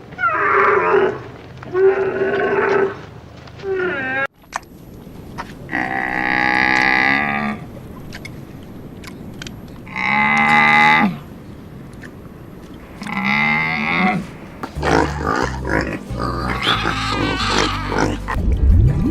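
Livestock calling: a quick run of short calls, then three long, drawn-out calls a few seconds apart, followed by a busier jumble of animal sounds near the end.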